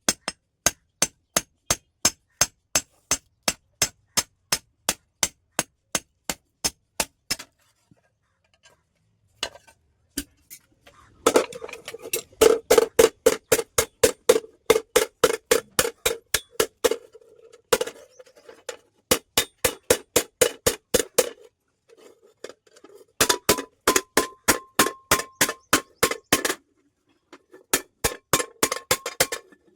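Hammer blows on a steel plate being forged, an even run of about three strikes a second. After a short pause come faster strikes with a ringing metallic tone.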